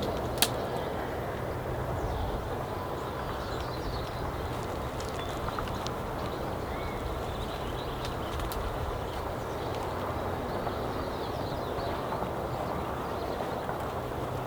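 Steady wind rushing over the microphone, with a few faint bird chirps and a sharp click just after the start.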